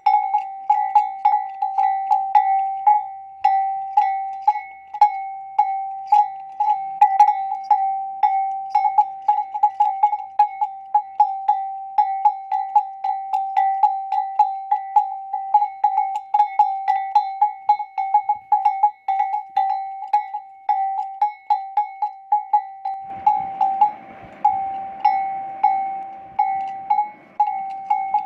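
A metal bell hung on a camel clanks over and over at an uneven two to three strikes a second as the animal moves. About 23 seconds in, a rough rushing noise joins it.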